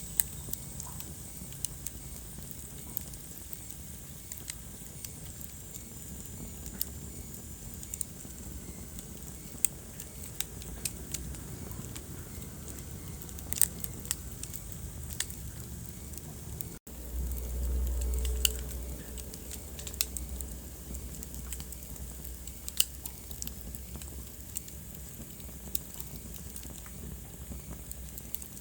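Wood fire crackling in a fireplace: sharp, irregular pops and snaps over a low, steady rumble. The sound drops out for an instant about 17 seconds in, then the low rumble swells briefly.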